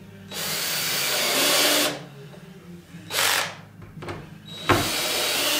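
Cordless drill-driver running in two bursts of about a second and a half each, with a short burst between, driving screws into door fittings.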